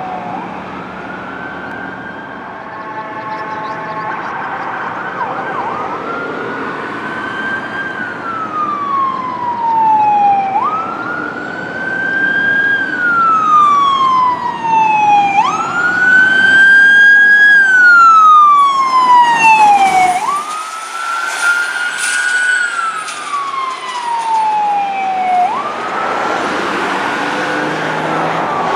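Emergency-vehicle siren wailing, each cycle rising quickly and then falling slowly, about every five seconds. It grows louder toward the middle as the vehicle passes, with engine and road noise underneath.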